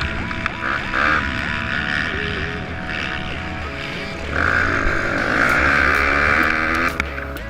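Music playing over the buzz of a pit bike's small engine, which gets louder about halfway through as the bike revs harder.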